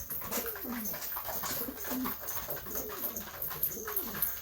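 Several domestic pigeons cooing, with overlapping low rolling coos that rise and fall in pitch, and scattered faint clicks and rustles among them.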